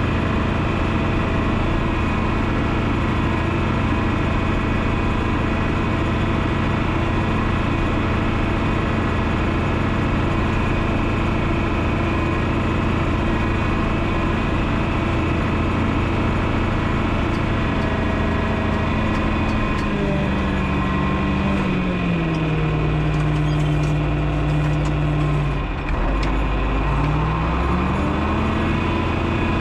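John Deere 6030's turbocharged six-cylinder diesel engine running steadily. About two-thirds through, its speed drops and holds low for several seconds, then climbs back up near the end.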